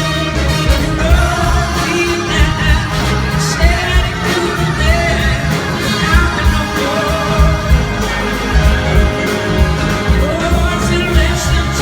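Live blues-rock band playing, with singing over the band.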